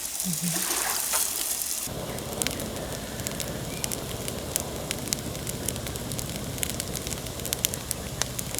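Food sizzling on a grill for about two seconds, then an abrupt change to a campfire crackling, with scattered sharp pops from the burning wood.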